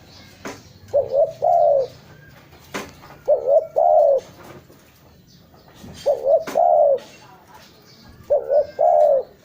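Spotted dove (tekukur) cooing: four phrases about two and a half seconds apart, each a couple of short notes followed by a longer coo.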